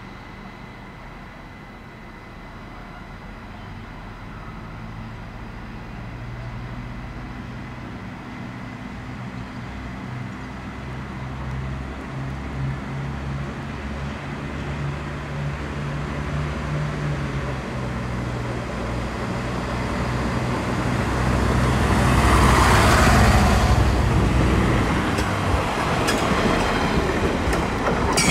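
Regional train pulling out: a steady low motor hum that grows louder as it gathers speed, loudest as it passes close about two-thirds of the way in, with a few sharp wheel clicks near the end.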